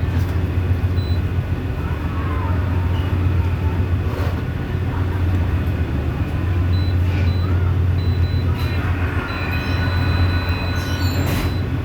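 Tugboat's diesel engine running with a steady low drone.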